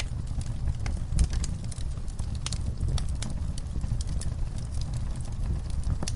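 Log fire crackling in a fireplace: irregular sharp pops and snaps over a steady low rumble of the flames.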